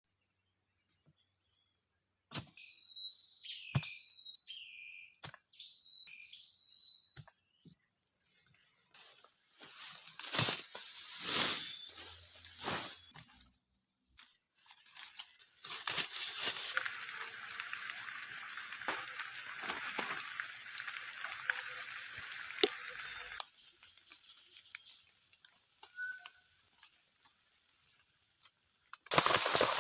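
Tropical rainforest ambience: a steady high insect drone with short chirping calls, broken by a series of loud knocks about ten seconds in. Later comes a stretch of even rain hiss, then the insect drone again, with heavy rain starting right at the end.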